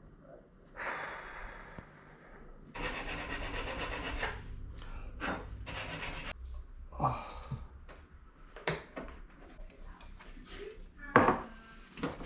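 Hand rasping strokes, quick and even, as hardened excess glue is worked off the motorbike's plastic rear light mount, with short pauses and a few knocks between bouts.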